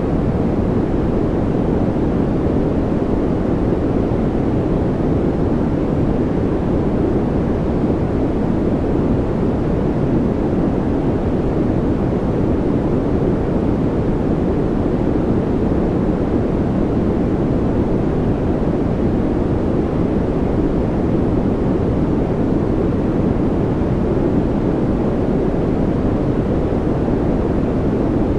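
Continuous noise track of the kind played for focus and calm, sold as white noise but weighted toward the low end: a steady, deep rushing hiss with no swells or changes.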